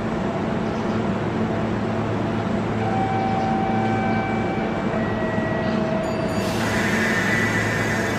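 Kintetsu limited express train standing at the platform, its onboard equipment giving a steady low hum. A few brief steady tones sound midway, and about six and a half seconds in a bright hissing or ringing noise starts suddenly and continues.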